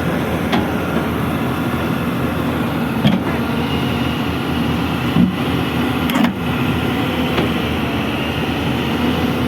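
Excavator engine running steadily, with a few sharp clanks at irregular intervals.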